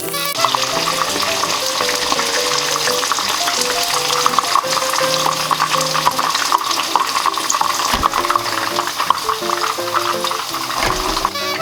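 Karaage chicken pieces frying in hot oil, a dense, steady crackling sizzle, with background music.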